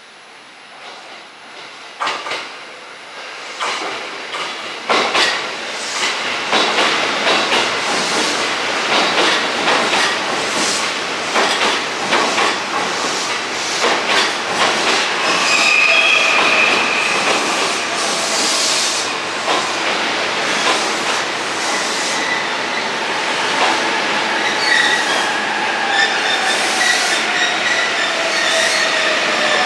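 Electric commuter train on the Joban Line running into a station, its wheels clicking over rail joints as it grows louder over the first few seconds. A brief wheel squeal comes about halfway through, and in the second half several tones fall steadily in pitch as the train slows.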